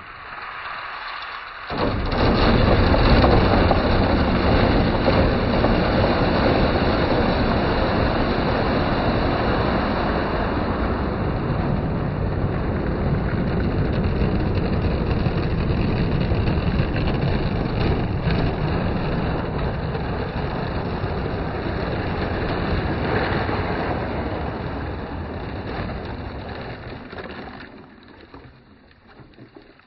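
Water rushing down the bamboo channels of a handmade water marble run, carrying marbles along. It starts about two seconds in, runs steadily, and dies away near the end.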